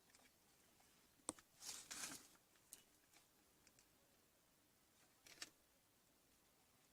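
Near silence, with a few faint clicks and rustles about a second in and again around five seconds in.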